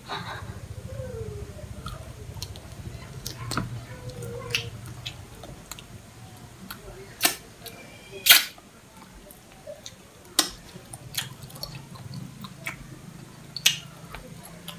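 Close-up eating sounds from chewing grilled cuttlefish: wet mouth smacks and sharp clicks at irregular intervals, the loudest a little past the middle, over a low steady hum.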